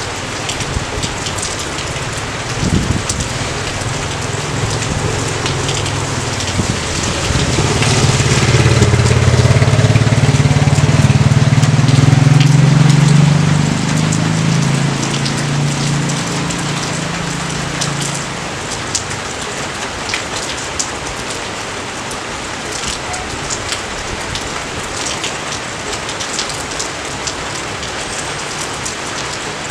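Steady rain falling on a rice field: an even hiss with many fine drop patters. About seven seconds in, a low rumble swells, then fades away by about eighteen seconds.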